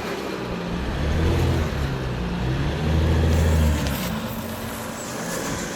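Jeep Gladiator's engine working under load as it crawls over rocks, with the throttle coming on twice in longer surges before easing off.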